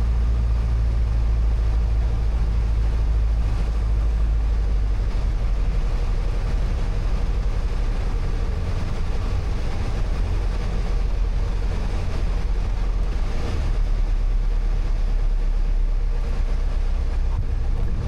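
Light airplane's piston engine and propeller droning in the cabin during the final approach and landing. The low engine tone softens after about six seconds, as power comes back for the touchdown.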